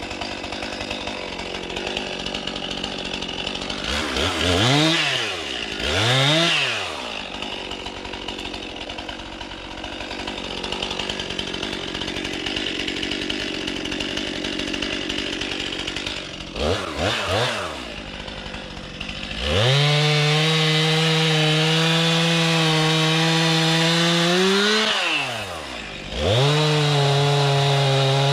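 Two-stroke chainsaw idling and revved up twice, then given a few quick blips. It is then held at a steady full-throttle pitch for about five seconds while cutting wood, drops back briefly and goes straight back to full throttle.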